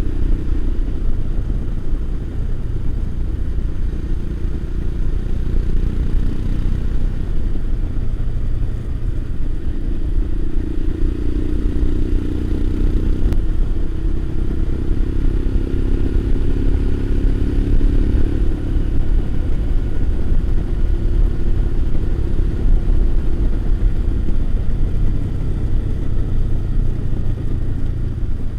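Motorcycle engine running steadily while riding along, with low wind rumble over the microphone; the engine note shifts and rises slightly between about a third and two-thirds of the way through as the speed changes.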